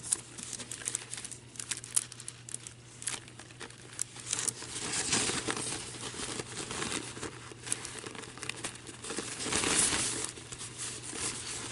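Thin paper napkin crinkling and rustling as it is pulled and torn away along a water-wetted line, loudest about five seconds in and again near ten seconds.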